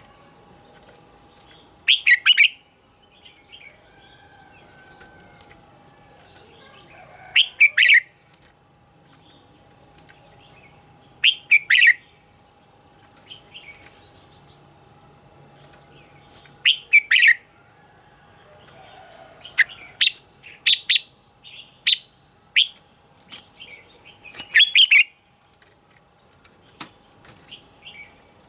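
Red-whiskered bulbul singing: short, loud warbled phrases about every four to five seconds, with quieter chirps between them. A little past the middle comes a run of sharp single notes. A faint steady hum runs underneath.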